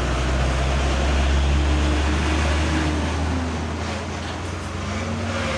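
A large vehicle's engine running close by with road noise: a deep, steady rumble, its pitch dipping and then climbing again near the end.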